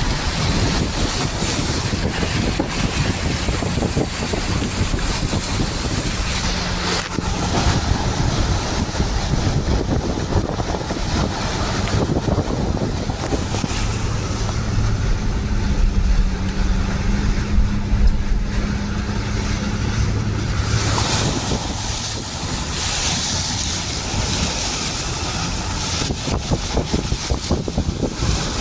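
Vehicle moving through floodwater: its engine runs under a continuous rush and splash of water, with wind buffeting the microphone.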